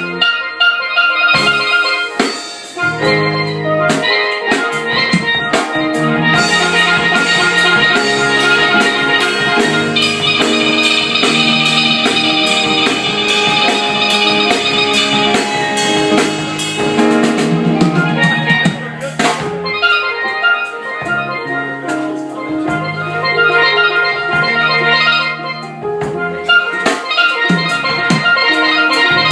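Steel-band music: steel pans playing a melody over a drum-kit beat.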